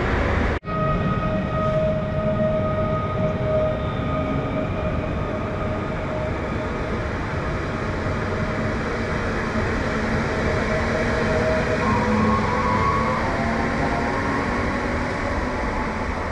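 A train running at a railway station: a steady rumble with a high whining tone held over it, and further whining tones joining near the end. The sound breaks off for an instant just after the start.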